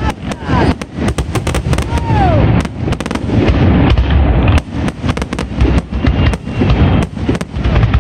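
Aerial fireworks display: shells bursting in a rapid, unbroken barrage of bangs and crackles over a deep rumble.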